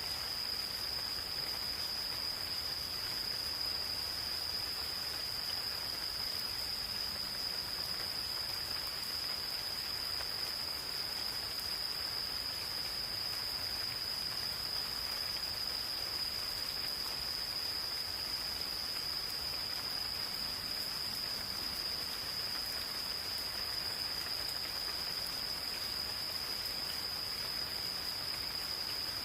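Gentle rain falling in a forest, with an insect singing one unbroken, steady high-pitched note throughout.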